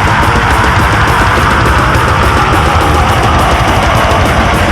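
Heavy metal band playing live, loud and steady: distorted guitars, bass and drums in an instrumental passage without vocals.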